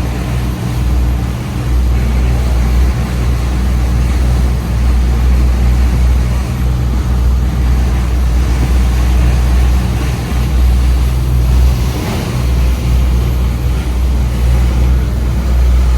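Charter fishing boat's engine running steadily under way, a loud, constant low rumble.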